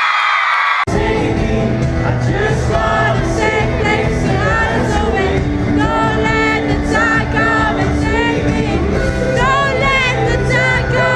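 Live pop concert heard from within the crowd: fans screaming, then about a second in the full band comes in suddenly with drums and bass. A voice sings over the music while the crowd keeps shouting.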